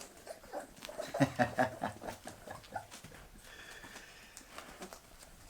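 Bull terrier puppies making a quick run of short grunts and squeaks, starting about a second in and lasting about two seconds, then quieter.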